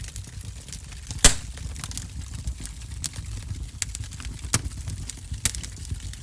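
Wood fire crackling in a fireplace: a low, steady rumble of the flames under scattered small ticks and a few sharp pops. The loudest pop comes about a second in, and two more come near the end.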